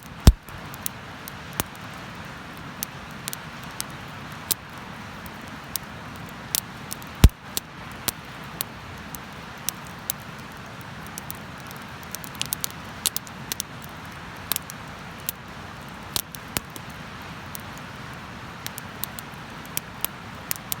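Wood bonfire crackling, irregular sharp pops and snaps over a steady hiss, with two loud pops, one just after the start and one about seven seconds in.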